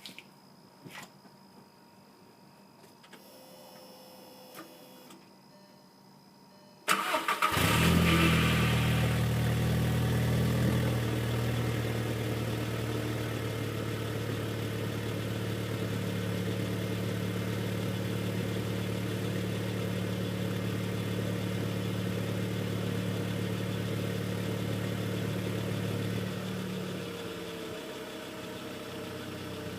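Mk4 VW Golf's 2.0-litre 8-valve four-cylinder engine, exhaust with the resonator deleted and the stock muffler kept, starting suddenly about seven seconds in after a few quiet seconds with faint clicks. It settles into a steady idle, which eases off a little near the end.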